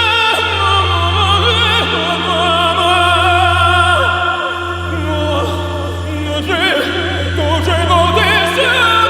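A singer's wordless, opera-like vocal line, high and wavering with fast vibrato, over a steady low drone that breaks off briefly three times.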